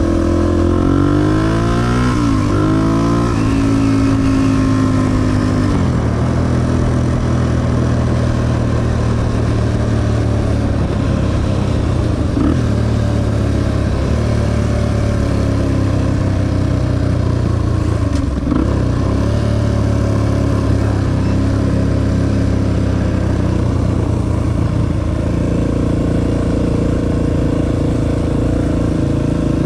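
Honda XR250 dirt bike's single-cylinder four-stroke engine under way. Its pitch rises as it accelerates, drops at each upshift about three and six seconds in, then holds at a steady cruise.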